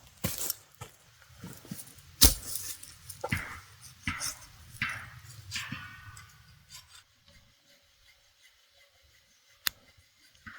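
Sharp knocks on wood followed by several scraping strokes, then a quiet stretch broken by a single sharp click near the end.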